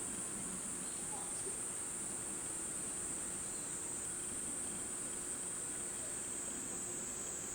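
Insects in summer woodland singing as a steady, unbroken high-pitched chorus, with a faint low steady hum beneath it.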